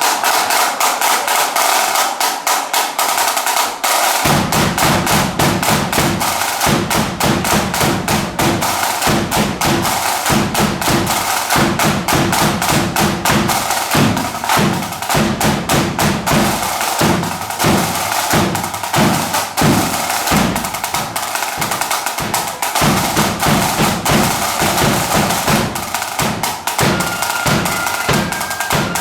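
A marching band's drum section playing: rapid snare-drum beating and rolls, with a bass drum coming in about four seconds in and pounding on with them.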